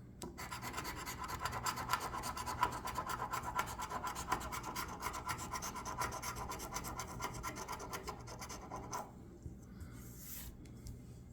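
Scratch-off lottery ticket being scratched: rapid, continuous scraping strokes across the card's latex coating, stopping about nine seconds in.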